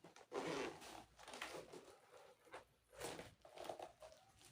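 Faint rustling and scraping of packaging being handled as the speaker's box is opened, in irregular bursts.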